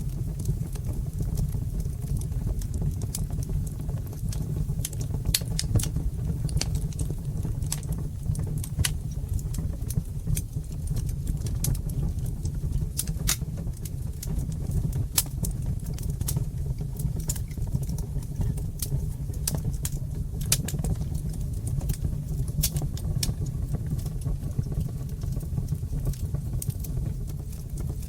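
Fire crackling in a fireplace: a steady low rumble of burning with frequent sharp, irregular pops and crackles throughout.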